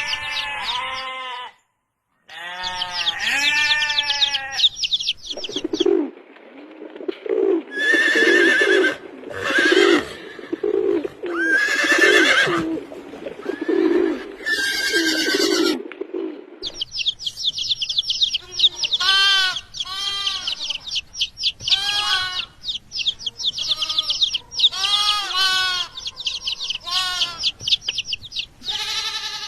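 Farm animals bleating repeatedly, in wavering pitched calls. In the middle stretch these give way to a run of lower, evenly repeated calls.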